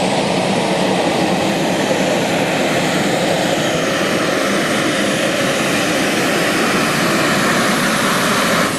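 Two-wheel-drive pulling truck's engine at full throttle under heavy load as it drags the sled, loud and steady.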